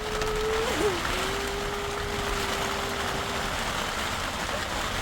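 Steady hiss of heavy rain falling. A single long, steady tone sounds over it, wavers briefly about a second in, and stops about three and a half seconds in.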